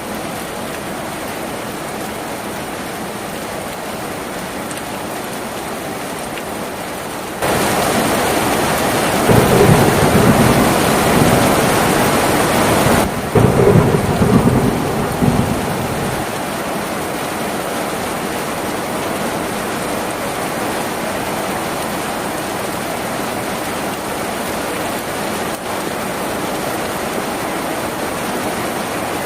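Steady rain on a tin roof. About seven seconds in the rain suddenly grows heavier, and a rumble of thunder follows for several seconds before the rain settles back to a steady downpour.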